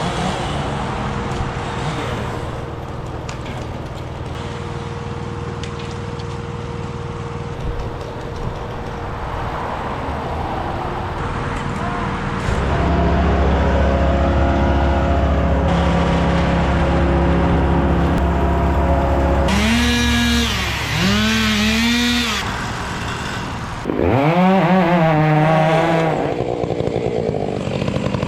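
Two-stroke chainsaw revved up and back down three times in the second half, each rev rising sharply in pitch and falling away. A steady engine runs underneath throughout and gets louder about halfway through.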